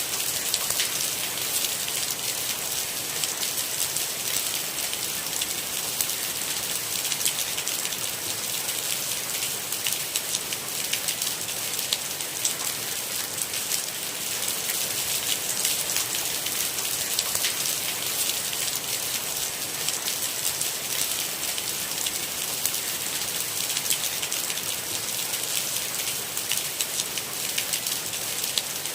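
Steady rain, a constant hiss with many distinct drops ticking through it.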